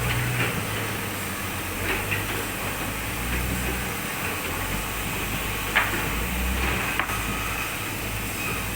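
Sawmill machinery running with a steady low drone. There is a sharp knock a little before six seconds in and a lighter one about a second later.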